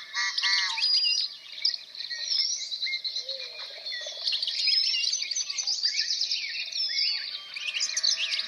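Several songbirds singing and chirping at once, a dense chorus of overlapping trills and quick whistled notes.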